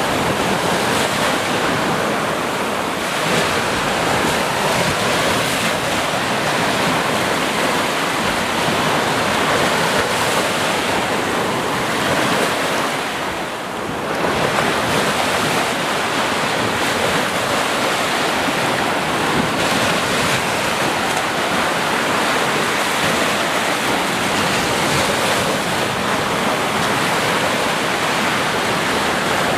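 Sea waves breaking and washing on a shore: a steady rush of surf with a brief lull about halfway through.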